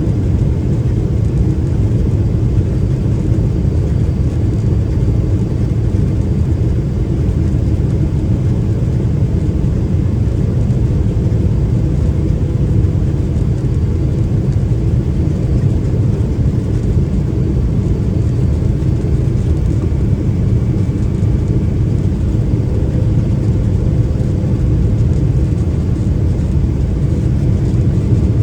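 Steady low rumble of airflow and the GE90 turbofan engines heard inside the cabin of a Boeing 777-300ER on final approach, with faint steady whines above it.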